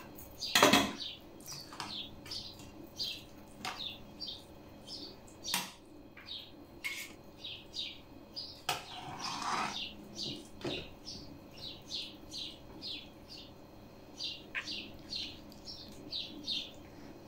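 Small birds chirping steadily, two or three short high chirps a second, with a few clicks and a short rustle of cabbage leaves and utensils being handled on metal trays.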